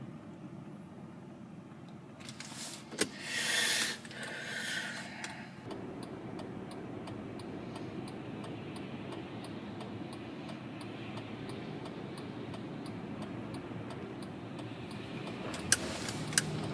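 Car cabin with steady road and engine rumble. A loud rush of noise with a sharp click comes at about 2 to 5 seconds in. After that, a turn-signal indicator ticks steadily several times a second, and two sharp clicks come near the end.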